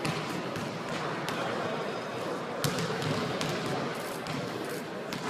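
Basketballs bouncing on a hardwood gym floor, a few scattered sharp knocks over steady background noise.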